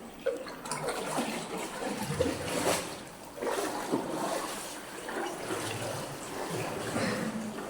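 Water splashing and trickling around a canoe as it is paddled, in uneven surges.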